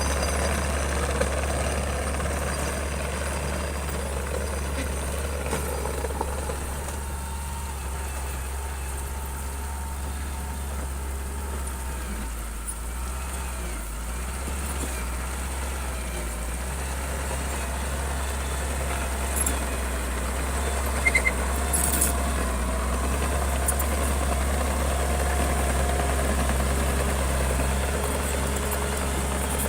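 A bulldozer's diesel engine running with a steady low drone. It eases off a little around the middle and builds again, with a few short clicks about two-thirds of the way through.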